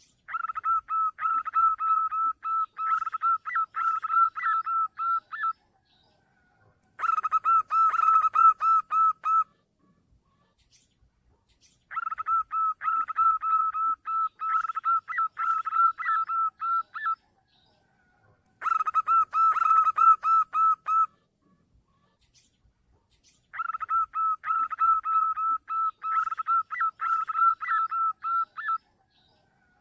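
Zebra dove calling: five bursts of rapid, repeated high cooing notes, each burst a few seconds long, with short pauses between them. This is a lure call used to draw in other zebra doves.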